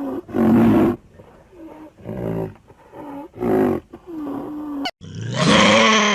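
A big cat roaring in a series of loud calls about every second and a half, each followed by a quieter drawn-in breath. About five seconds in, the sound cuts abruptly to a different long animal call that falls in pitch.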